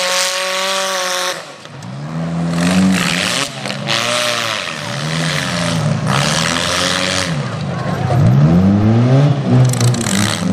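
Demolition derby car engines revving hard and easing off again and again, with wheels spinning on grass and dirt. For the first second and a half one engine is held at high revs, then it drops away.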